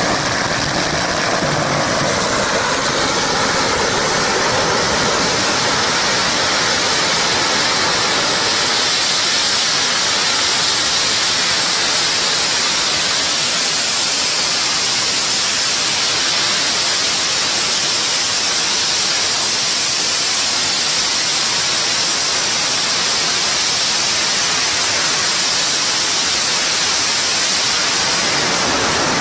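Huge strings of firecrackers going off continuously, so many bangs so close together that they merge into one loud, steady hiss of crackling with no single bang standing out.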